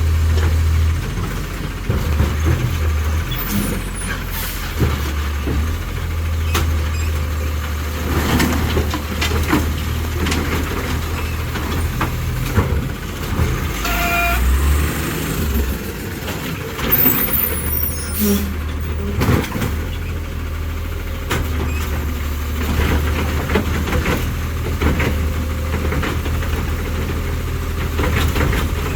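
Autocar ACX side-loader garbage truck working a route: its engine runs with a steady low rumble, broken by air brake hisses and the knocks and clanks of the automated arm and carts. A short beep sounds about 14 seconds in.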